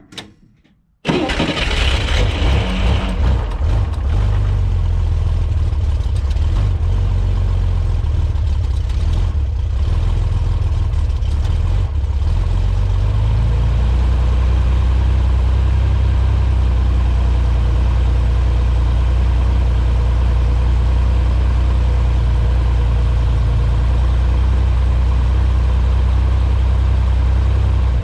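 1963 Chevrolet Corvair's air-cooled flat-six cold-starting on freshly rebuilt carburetors: it catches about a second in, runs unevenly for a few seconds, then settles into a steady idle that drops a little lower about halfway through.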